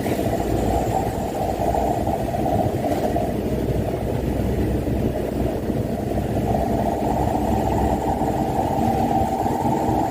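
Mitsubishi Canter dump truck's diesel engine running steadily, a continuous low mechanical drone.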